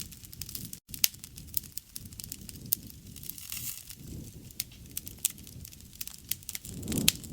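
Wood fire burning: irregular sharp crackles and pops over a low rumble of flame, which swells briefly near the end.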